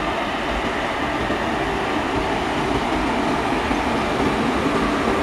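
Passenger train running through at speed, its coaches passing close by: a steady noise of wheels rolling on rail, even and without a distinct clickety-clack beat.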